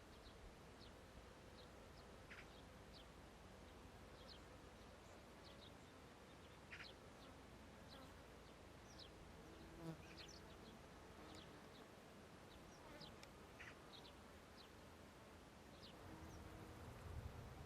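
Faint meadow ambience: insects buzzing, with many short, high chirps scattered throughout. A low buzz, like a passing fly or bee, comes briefly about ten seconds in and again near the end.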